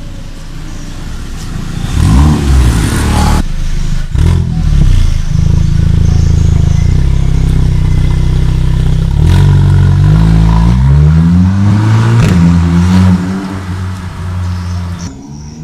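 Audi TT's engine revved through an aftermarket valved exhaust: a quick blip about two seconds in, a few sharp cracks, a steady held rev, then revs climbing in steps before dropping off near the end.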